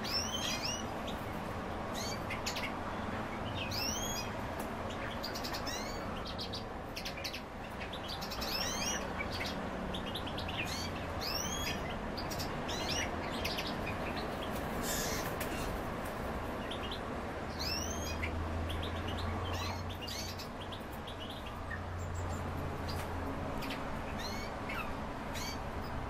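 Pet songbirds chirping: short high calls, many of them arching up and down in pitch, repeated every second or so with brief gaps, over a steady low hum.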